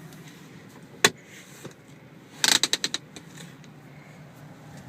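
Clicks of a car's 6-speed manual gear lever being worked: one sharp click about a second in, then a quick rattle of about half a dozen clicks near the middle.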